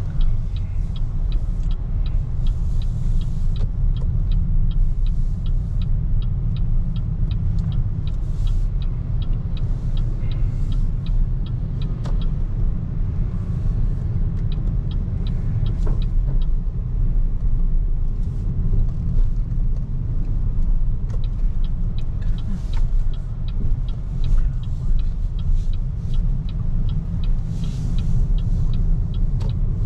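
Steady low rumble of road and tyre noise from a BYD Seagull electric car driving, with no engine note. A faint, regular high ticking comes about three times a second through much of it.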